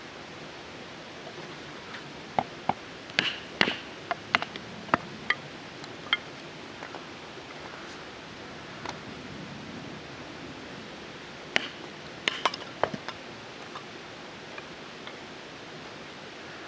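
Camp gear being handled: a series of sharp clicks and knocks in two short clusters, a few seconds apart, over a steady hiss.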